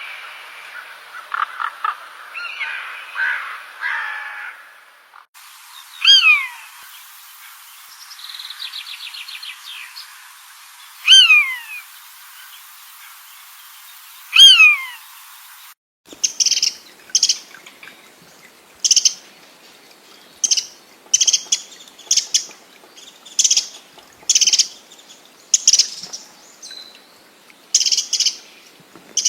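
Bird calls from several birds in succession. First a warbling, chattering song. Then three loud, falling calls a few seconds apart, with a quick trill between the first two. Then a run of short, sharp calls about once a second.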